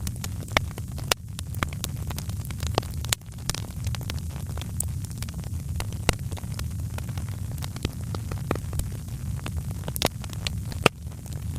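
Wood fire in a fireplace crackling: frequent irregular snaps and pops over a steady low rumble, with a sharper pop near the end.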